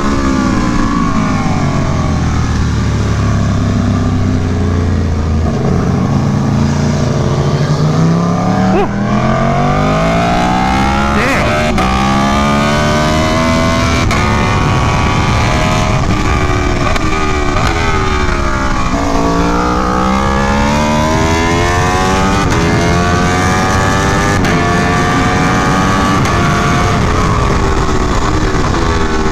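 Aprilia Tuono V4 1100 Factory's V4 engine heard from onboard at track pace, with wind rush over the microphone. The revs drop at the start under braking and downshifts, then climb again and again with short breaks at each upshift. They fall sharply once more about two-thirds through before climbing through the gears again.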